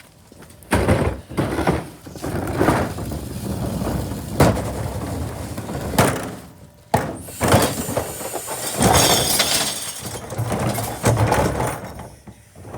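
A curbside can being emptied into an electric garbage truck's hopper, with glass bottles crashing and shattering among the falling trash. There are repeated loud crashes and a dense glassy clatter about two-thirds of the way through.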